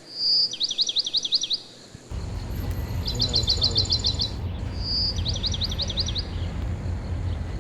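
Songbird singing repeated phrases: a short clear whistle followed by a fast run of sliding notes, about every two seconds. From about two seconds in, a steady low outdoor rumble runs underneath.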